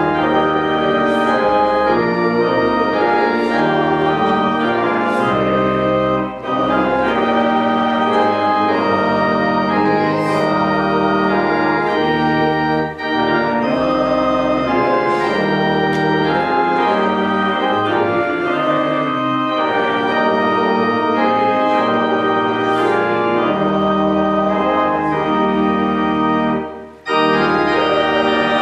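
Church organ playing a hymn in held chords, with short breaks between phrases about six seconds in, about thirteen seconds in, and near the end.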